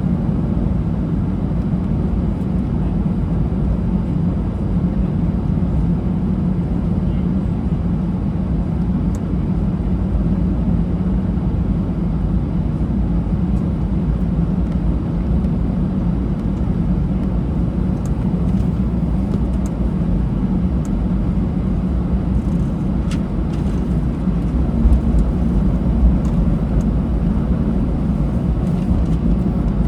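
Steady low rumble of a jet airliner's cabin noise with the engines running, heard from inside the cabin, with a few faint clicks or rattles near the end.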